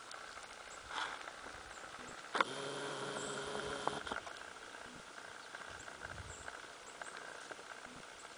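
Quiet farmyard ambience with faint pattering and rustling of dogs moving about sniffing the ground, a few faint high bird chirps, and a brief steady hum lasting under two seconds about two and a half seconds in.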